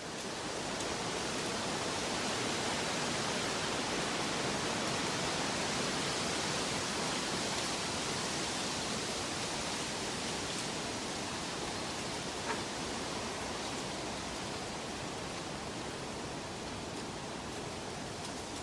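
Steady, even rushing noise of a nature-sounds ambience track, swelling in over the first second and then holding steady. A single faint tick about twelve seconds in.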